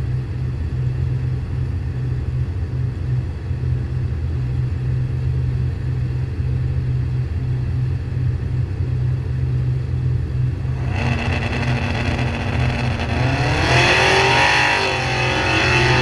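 V8 engine of a 1969 Camaro idling with a steady, pulsing lumpy idle, heard close from the hood. About eleven seconds in, a louder engine sound joins and revs up, its pitch climbing.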